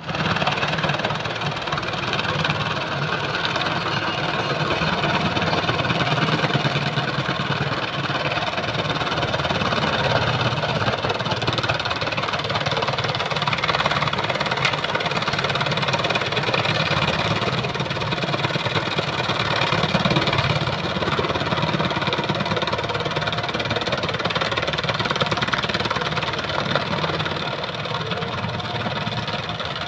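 Tractor engine running steadily, a continuous even drone with no breaks or changes in speed.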